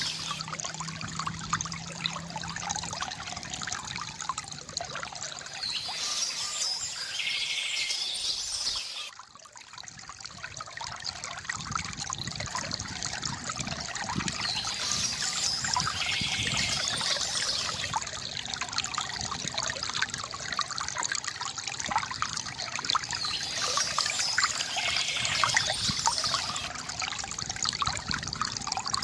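Water trickling and gurgling steadily from a bamboo fountain, with birds chirping briefly about every nine seconds. The water drops away sharply about nine seconds in and builds back up over the next few seconds.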